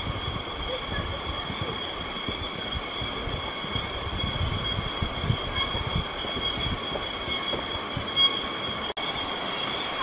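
A steady, high-pitched buzzing drone of cicadas in the forest, unbroken throughout, over irregular low thuds of footsteps on the suspension bridge.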